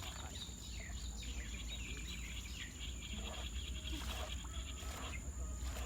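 Outdoor field ambience: a steady high-pitched insect trill with faint bird chirps, a low rumble, and a few short rustles or snaps in the second half.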